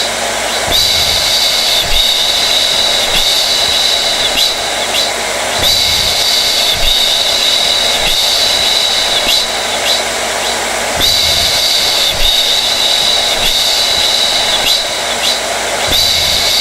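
Hair dryer running continuously: a rush of air with a steady high whine over it. The whine dips and shifts briefly every five seconds or so.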